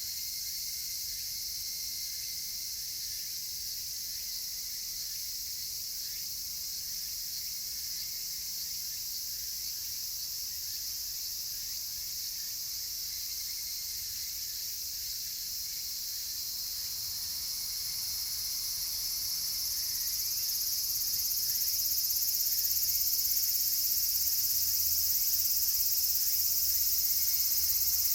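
A dense chorus of cicadas shrilling steadily, swelling louder about two-thirds of the way through.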